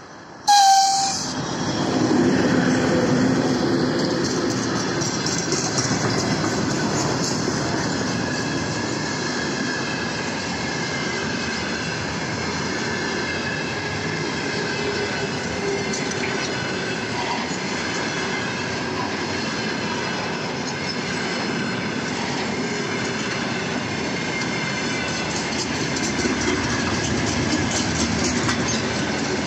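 Freight train behind a VL11M electric locomotive passing at close range: a sudden loud rush as the locomotive draws level about half a second in, then the steady rumble of the freight wagons rolling by with a regular clickety-clack of wheels over rail joints and a faint steady high ring.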